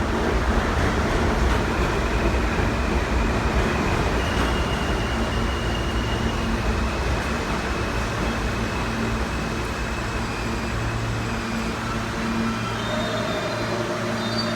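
R160 subway train running on the track: a steady rumble with a faint thin high whine over it, the low rumble easing off near the end.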